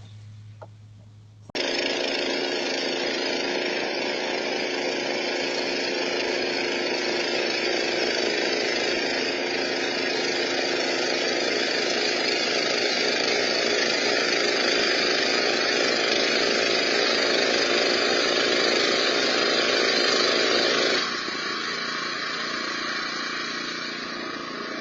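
Honda 928 snowblower engine running steadily under load, a loud, even mechanical drone. It cuts in suddenly about a second and a half in, and near the end its deeper part drops away and it runs quieter.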